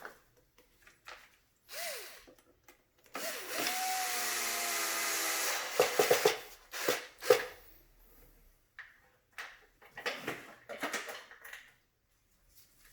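A small electric motor whirs for about two and a half seconds, its pitch rising as it spins up, after a short blip about two seconds in. Then come scattered clicks and knocks of plastic parts being handled.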